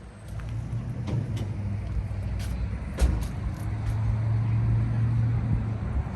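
A vehicle engine running at a steady idle close by, with a few sharp clicks over it.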